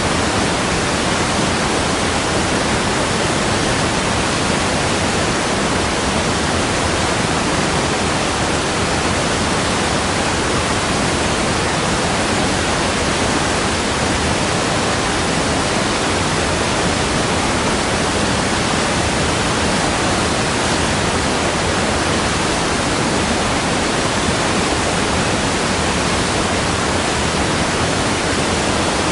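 Waterfall pouring over rocks: a loud, steady rush of falling water that does not change.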